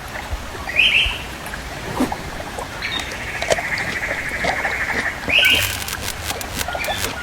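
Bird calls: a short squawk about a second in, a longer rattling trill a couple of seconds later, and another short squawk near five seconds, over scattered ticks and crackles.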